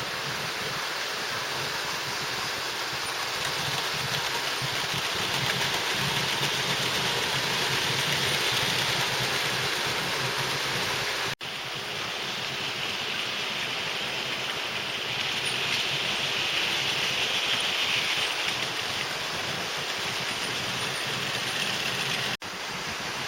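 00 gauge model trains running on the layout: a steady whirring rattle of wheels and small motors on the track that swells and fades as trains pass. The sound cuts out abruptly twice.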